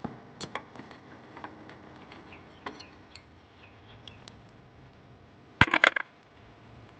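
Metal tools and parts clinking and clattering in scattered light knocks, with a burst of louder metallic clatter about two-thirds of the way in.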